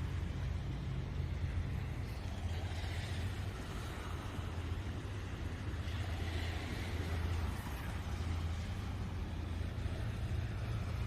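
Steady low rumble of a moving motor vehicle, engine and road noise running evenly with no clear changes.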